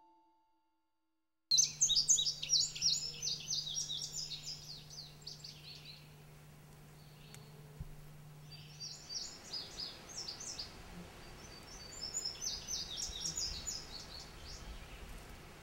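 Songbirds singing: after about a second and a half of silence, a bout of rapid, high chirping notes starts suddenly, then fades, with two more bursts of song a few seconds apart near the end.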